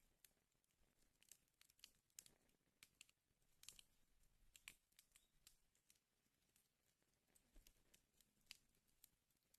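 Wood fire burning in a fireplace, faintly crackling with irregular sharp pops and snaps, several a second at times.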